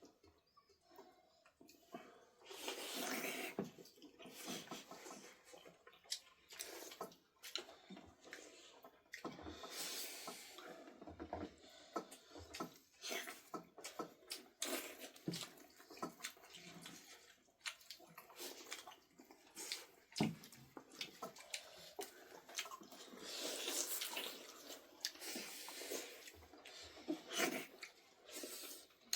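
Water splashing and sloshing in irregular bursts, with scattered knocks and clinks.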